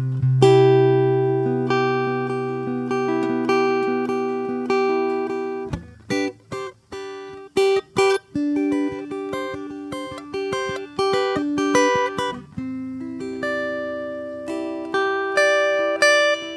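Solo acoustic guitar played slowly with plucked notes left to ring. About six seconds in the playing thins to a few single plucks with short pauses, then the fuller picking returns.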